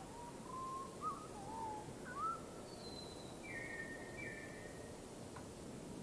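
Birds calling: a few short whistled notes that rise and fall in the first couple of seconds, then a higher falling note and two flat, drawn-out notes, over a steady background hiss.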